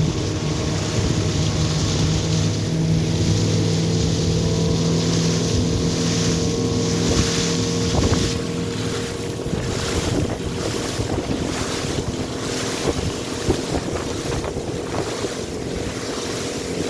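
Tour boat's engine running steadily underway, with water rushing and wind buffeting the microphone. About halfway through, the engine hum drops back and gusty wind noise grows.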